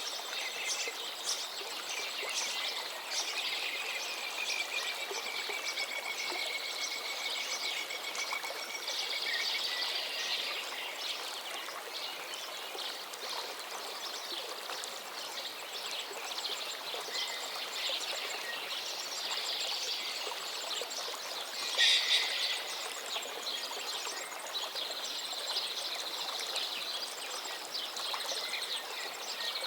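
Several birds singing and calling over the steady rush of flowing river water. One long drawn-out whistle slides slowly down in pitch a few seconds in, and a loud, sharp call stands out about 22 seconds in.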